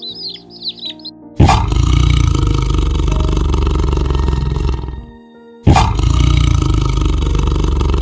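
A tiger roaring twice, each roar starting abruptly and lasting a few seconds, over soft background music. There are a few high chick peeps in the first second.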